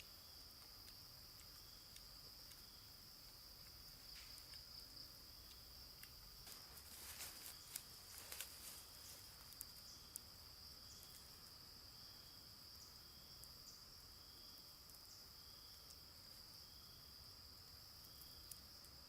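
Steady high-pitched drone of insects, with a fainter call pulsing about once every three-quarters of a second. Between about four and ten seconds in, a scatter of small clicks and rustles sounds over it.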